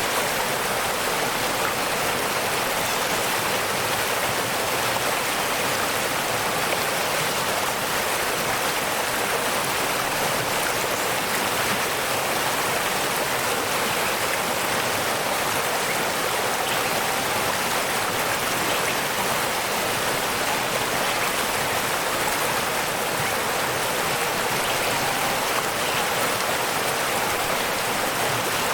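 Waterfall: falling water rushing steadily, with a hiss that stays even throughout.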